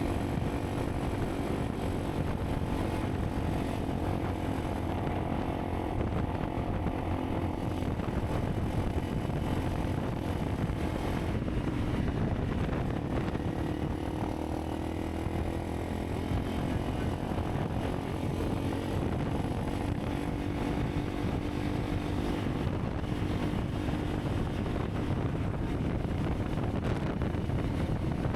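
Honda CRF300 Rally's single-cylinder engine running steadily while riding, its pitch rising and dipping slightly with small throttle changes, with wind noise mixed in.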